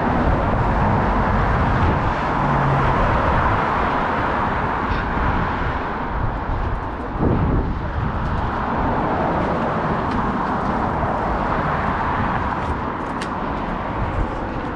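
Steady rush of wind and road noise on a camera carried on a moving bicycle, with motor traffic around it.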